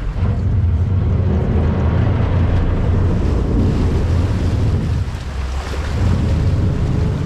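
Boat engine rumbling low and steady, with water wash and wind buffeting the microphone; the rumble eases briefly about five seconds in.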